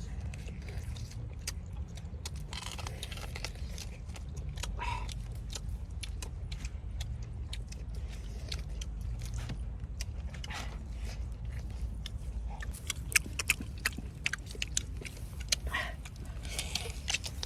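People eating grilled chicken: scattered biting and chewing with short sharp clicks, a run of louder clicks a little past the middle, over a steady low rumble.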